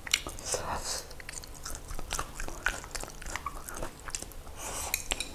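A person chewing food with the mouth close to a clip-on microphone: a run of small wet smacks and clicks.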